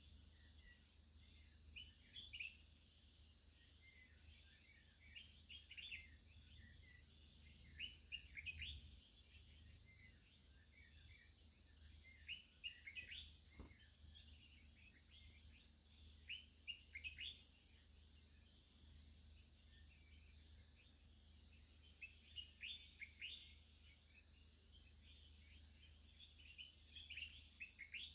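Wild birds chirping in many short, quick notes over a steady high-pitched insect chorus that trills and pulses without a break.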